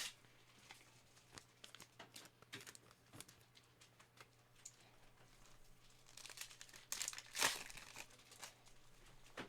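Trading card packs being handled: wrappers crinkling and tearing, with cards shuffled, in a string of small crackles that grows busier and louder about seven seconds in.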